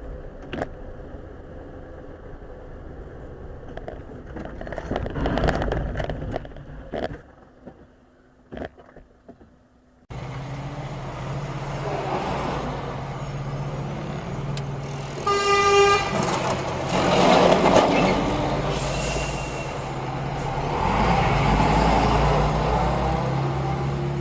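Road traffic and vehicle engine noise, with a car horn honking once, briefly, about two-thirds of the way through. There are a few sharp knocks in the first part.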